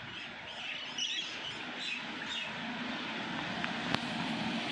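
Rumble of an approaching Indian Railways electric goods train, growing steadily louder, with birds chirping over it in the first half. A couple of sharp clicks near the end.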